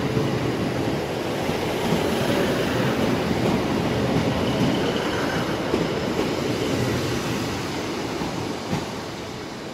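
Class 156 diesel multiple unit running past close by as it pulls into the platform: a steady rumble of wheels on rails and engines, easing off near the end.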